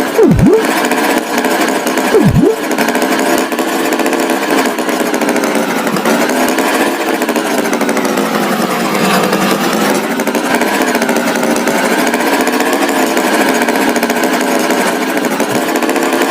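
A small motor running steadily with a buzzy, wavering pitch, such as a cartoon tractor engine effect. Two quick swooping sound effects fall and rise near the start.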